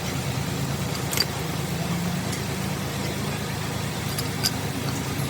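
A steady low engine or motor hum, with a few sharp metallic clicks over it.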